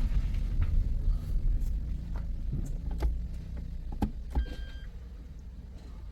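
Low, steady rumble of a Toyota with an MMT semi-automatic gearbox running and creeping slowly, heard from inside the cabin, with a few sharp clicks. A single short electronic beep sounds about four and a half seconds in, and the rumble gradually eases off.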